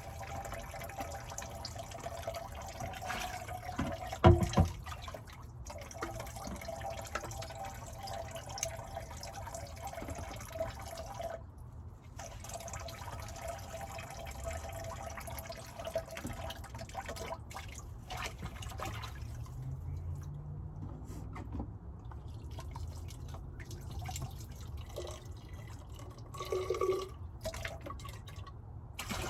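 Water running into a small sink while dishes are rinsed and washed by hand, with a sharp knock of a dish or utensil about four seconds in. The flow thins out after about twenty seconds, leaving drips and a few small clinks.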